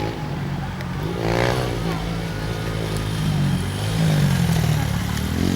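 Motocross dirt bike engine running, its pitch rising and falling with the throttle.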